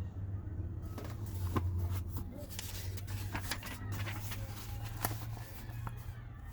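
Paper rustling and crinkling with irregular sharp clicks as the pages of a railroad track-and-customer book are handled and turned, over a steady low hum.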